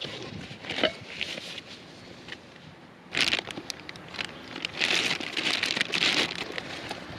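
Irregular rustling and crackling, as of dry material being handled, in short clusters about a second in, around three seconds in, and most strongly from about five to six seconds in.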